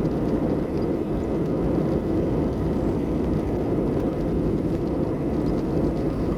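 Steady rumble of an Airbus A320's engines and airflow heard inside the passenger cabin, with no change in pitch or level.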